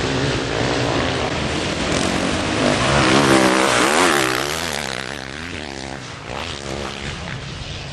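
Motocross bikes racing past, their engines revving up and down repeatedly. Loudest about three to four seconds in, then fading away.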